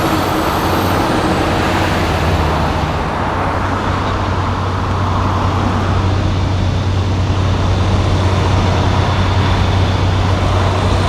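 Semi truck diesel engine running with a steady low drone, growing a little louder in the second half.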